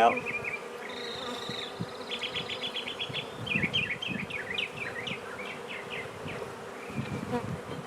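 Honey bees buzzing in a steady hum around an opened hive.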